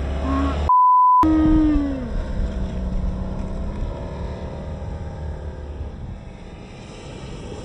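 Škoda Octavia 1.9 4x4 engine running under load as the car ploughs through deep snow, growing quieter towards the end. About a second in, everything cuts out for a half-second censor bleep, followed by a short falling tone.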